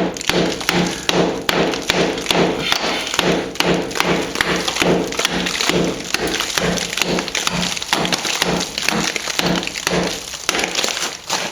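Hammer blows on a chisel, about three a second, chipping out hard old patching plaster along a crack in a solid plaster wall; each strike gives a sharp knock with a short low ring.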